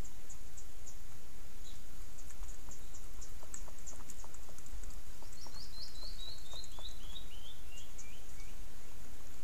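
A bird sings a descending series of about a dozen short whistled notes that fall in pitch and slow down, over a steady hiss and scattered faint high ticks.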